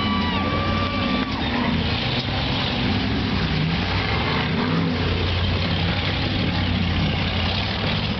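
Rock-crawling race car's engine running and revving up and down as it climbs over boulders.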